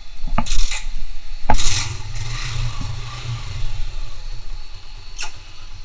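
A few sharp clicks and short rushing noises, then a low engine-like hum for about two seconds before it fades.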